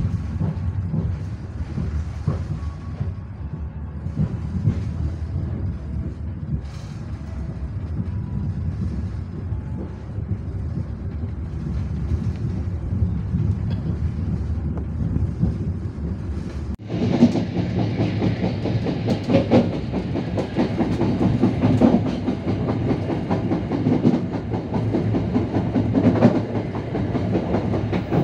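Riding inside a moving KA Walahar Ekspres local passenger train: a steady low rumble of the running coach with wheels clacking over the rails. About seventeen seconds in, the sound changes abruptly to a louder, brighter clatter.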